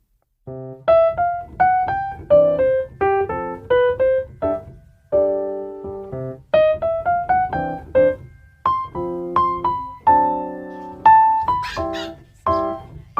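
Background music: a piano melody of quick single struck notes, each ringing and fading, starting about half a second in after a brief gap.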